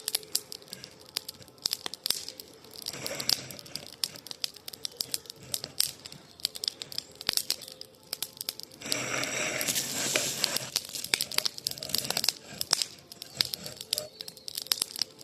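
Wood campfire crackling, with irregular sharp pops and snaps. There is a short louder rush of noise about three seconds in, and a longer one of about a second and a half a little after the middle.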